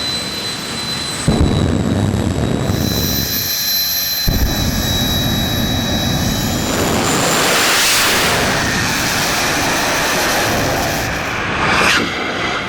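Mustang engines running hard at full throttle in a series of short edited clips, with a steady high whine over the engine noise early on and a loud surge of engine roar about halfway through.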